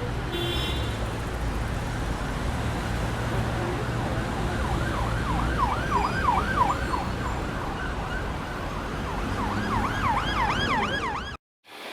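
Emergency vehicle siren in a fast yelp, rising and falling about four times a second, heard in two stretches over a steady low rumble of wind and street traffic. The sound cuts off suddenly near the end.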